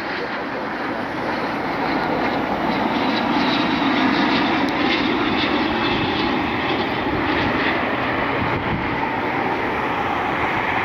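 Jet aircraft engine noise, a steady rushing roar that swells over the first few seconds and then holds.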